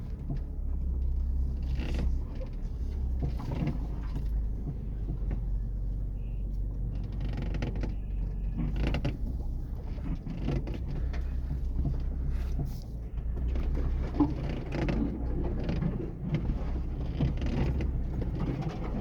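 Chery Tiggo 2 Pro's body creaking and knocking, heard from inside the cabin as the SUV crawls over uneven dirt and twists the body, over a steady low engine and road drone.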